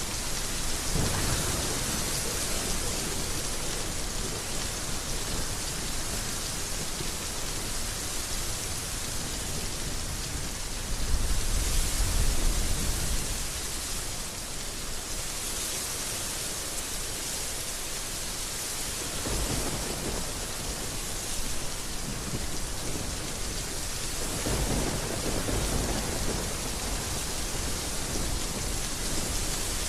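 Heavy rain falling steadily, with low rumbles of thunder rolling in several times; the loudest comes about a third of the way through.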